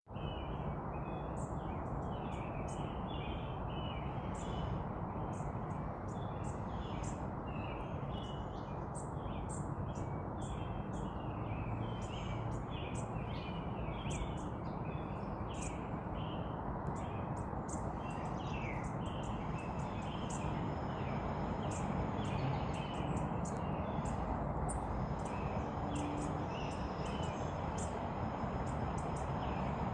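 Small birds chirping and twittering in many quick short notes throughout, over a steady background rush of noise.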